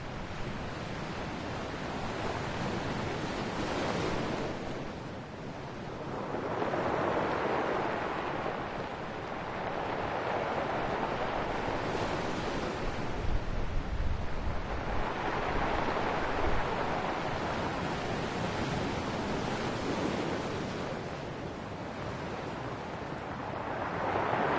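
Ocean waves breaking and washing up the shore, the surf swelling and falling back every few seconds. Wind buffets the microphone about halfway through.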